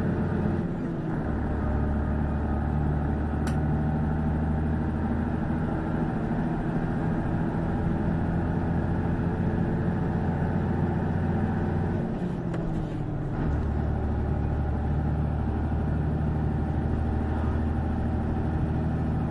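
1996 Volvo F12 truck's 420 hp diesel engine pulling under heavy load, its note breaking off and picking up again at two gear changes, about a second in and again about twelve seconds in. The gearbox synchros are worn, so each shift is made without them, like on a Road Ranger box. A short click comes a few seconds in.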